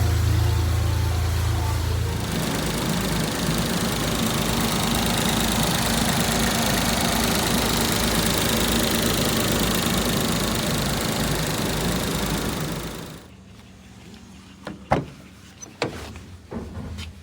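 Suzuki Carry kei truck's small three-cylinder engine running steadily, its sound changing to a noisier hum about two seconds in. It stops abruptly about four seconds before the end, as when switched off, and a few sharp clicks or knocks follow.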